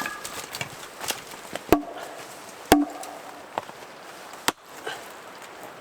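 Axe chopping wood: three sharp strikes, the first two each followed by a brief ringing tone, with a few lighter knocks between.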